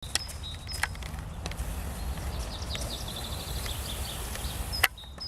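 Small songbirds calling: short high chirps, with a rapid trill of quick notes in the middle. A few sharp clicks cut in, the loudest near the end, over a steady low rumble.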